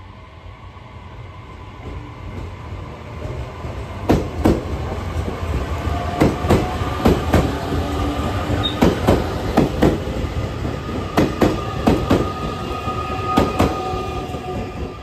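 JR Kyushu 817 series electric train running past close by, its wheels clacking over a rail joint in quick pairs as each bogie crosses, over a steady running hum. The sound builds as it approaches, the clacks start about four seconds in and carry on until the last car has gone near the end.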